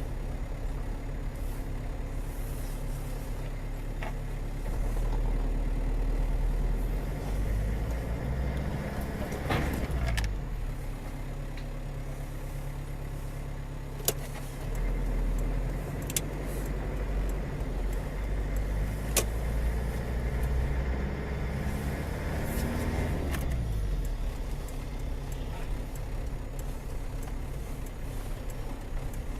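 Steady engine and road noise from a car driving in traffic, swelling twice as other vehicles pass by with a rise and fall in pitch. Three sharp clicks stand out in the middle.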